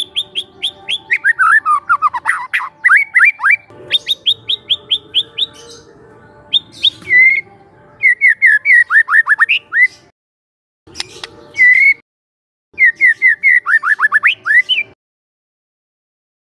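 Young white-rumped shama (murai batu) singing loud phrases: fast runs of short repeated notes and rapid downward-sweeping whistles, in bursts broken by short pauses.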